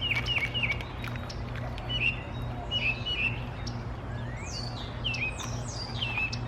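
Songbirds chirping: a run of short, hooked chirps repeated many times, with a few higher calls sliding downward in the second half, over a steady low hum.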